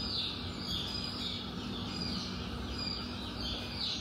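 Small birds chirping over and over, short falling chirps a few times a second, over a steady low hum.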